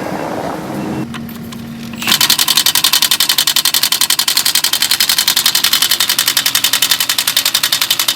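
Impact wrench hammering in a fast, even rattle of about ten blows a second, starting about two seconds in. Before that comes a steadier hum.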